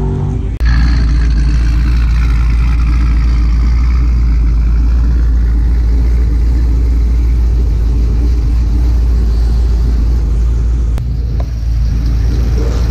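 Cadillac CTS-V's supercharged 416 cubic-inch stroker V8, with cam and long-tube headers, idling steadily and loud close by. A different car's engine is heard for the first half-second before it cuts off.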